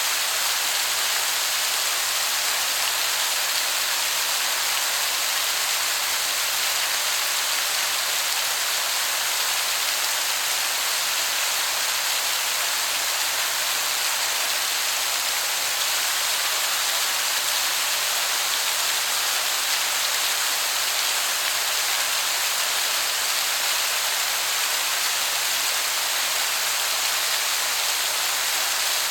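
Waterfall, heard as a steady, unbroken hiss of falling water that sounds like heavy rain.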